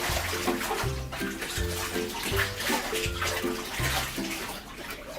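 Water sloshing and splashing in a bathtub as a soaked bed cover is trodden underfoot to rinse out the soap. Background music with a regular bass line plays underneath.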